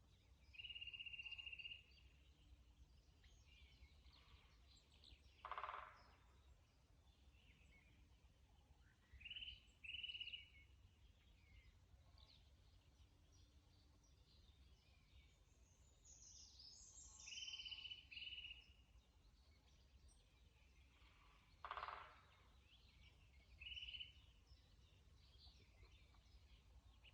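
Faint spring birdsong in a forest: a bird repeats short, steady whistled notes every few seconds, with a burst of higher falling notes in the middle. Two short harsh calls stand out, over a steady low background rumble.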